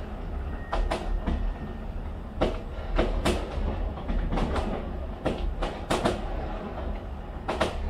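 New Year fireworks going off: a rapid, irregular string of sharp bangs and cracks, sometimes several within a second, over a continuous low rumble.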